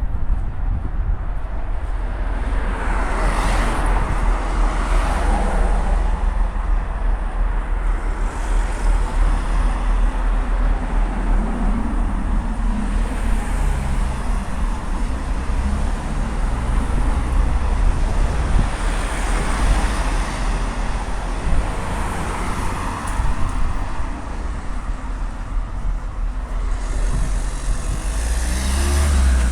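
Road traffic: vehicles pass one after another, a few seconds in, around the middle and again near the end, over a steady low rumble.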